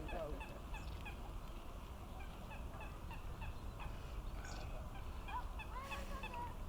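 Birds calling around the water: a steady run of short high chirps, with a few lower, gliding calls near the end, over a low background rumble.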